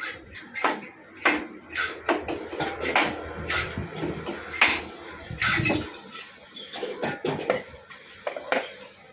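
Metal hand tools and engine parts clinking and knocking together in irregular sharp strikes, a few a second, during work on an old Royal Enfield Bullet engine, with a low rumble beneath until about six seconds in.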